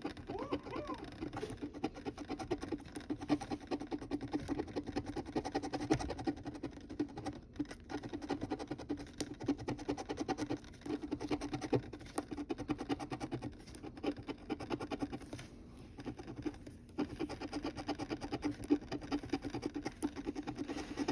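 Coin scraping the coating off a paper scratch-off lottery ticket: rapid, continuous scratching with a few brief pauses.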